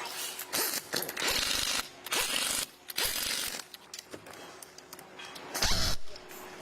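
Power tools or machines working metal in a workshop, running in a series of short, separate bursts of about half a second each, the loudest near the end.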